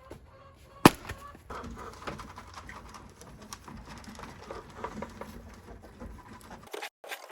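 Chickens clucking and murmuring softly in their coop, with a sharp knock a little under a second in and scattered small scratching clicks; the sound cuts off abruptly near the end.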